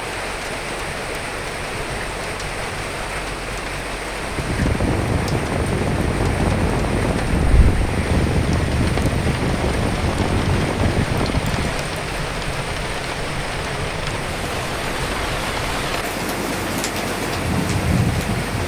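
Steady rain falling, with a gust of wind swelling about four seconds in, strongest around the middle, easing off, then rising again near the end.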